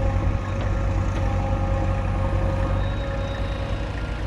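Heavy diesel engine of earthmoving or farm machinery running steadily with a deep, rapid throb.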